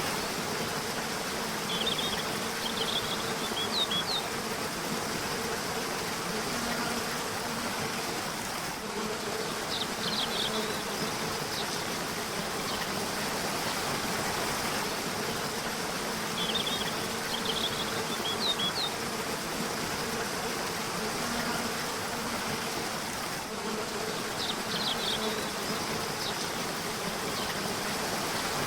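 River water flowing steadily, with short clusters of high bird chirps about four times and a low, wavering buzz like a flying insect underneath.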